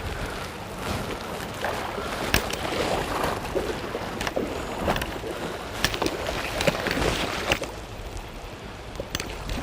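Flowing river water with irregular splashes, and wind buffeting the microphone.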